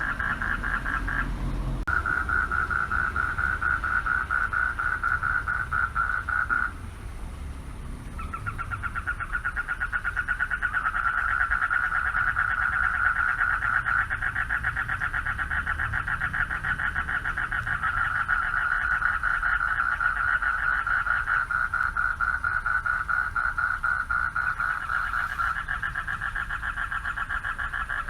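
Chorus of male frogs calling for mates: a dense, rapidly pulsed trilling that runs almost without break, dropping away briefly about seven seconds in before building back up.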